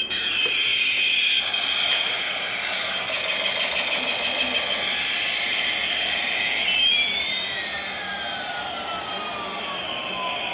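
Helicopter turbine engine running with a steady high whine. About two-thirds of the way through, a second tone splits off and glides steadily downward in pitch.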